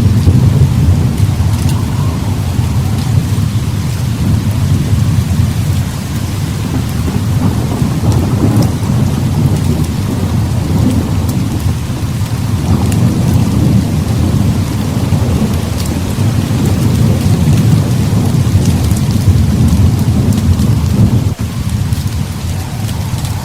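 Heavy rain falling steadily, with a continuous deep thunder rumble that swells and eases every few seconds.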